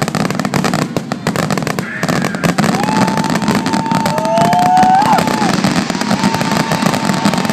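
Fireworks crackling and popping in rapid succession. From about three seconds in, a long steady high tone sounds over the din, with a second tone gliding upward beneath it, and the steady tone comes back near the end.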